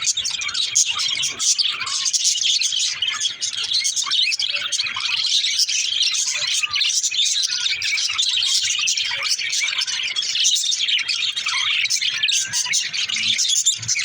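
A group of budgerigars chattering and chirping continuously, many high, quick calls overlapping with no pauses.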